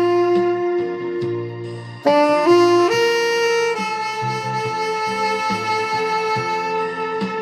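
Tenor saxophone played with a dry, unprocessed tone, giving a slow ballad melody: a held note, a short break about two seconds in, then a quick rising run into a long sustained note.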